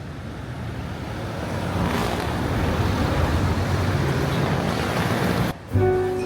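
A steady rushing noise that fades in and swells, then cuts off abruptly about five and a half seconds in as music with plucked notes starts.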